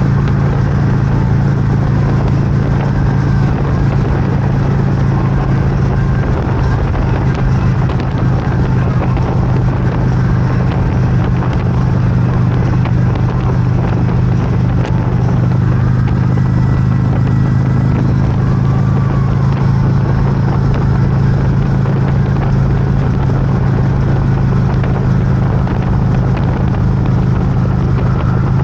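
Motorcycle engine running steadily while riding at a constant speed, with a constant rush of road and wind noise.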